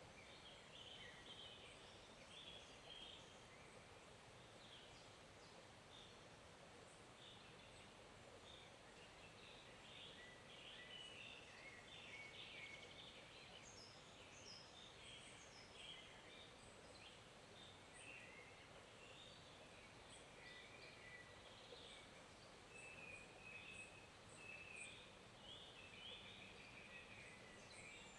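Faint, steady flow of a small forest stream, with small birds chirping and calling repeatedly throughout.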